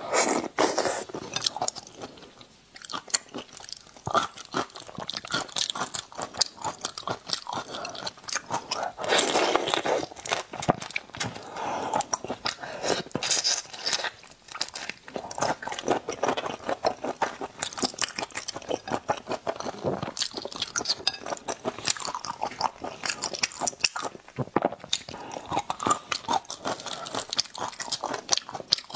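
Close-miked eating: large whole prawns being bitten and chewed, with dense, irregular crunching and crackling of shell and flesh throughout.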